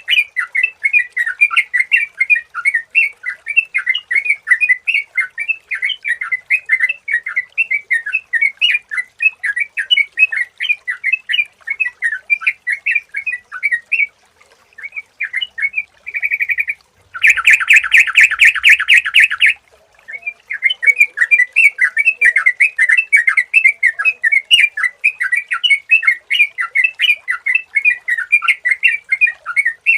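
Yellow-vented bulbul (trucukan) song: a rapid run of chirping notes several times a second. About halfway through it breaks off, then gives a loud fast rattling trill for two or three seconds before the chirping resumes.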